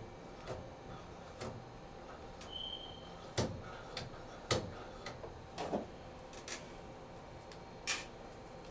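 A scattered series of light clicks and knocks, the sharpest about three and a half, four and a half and eight seconds in, with a brief high squeak about two and a half seconds in.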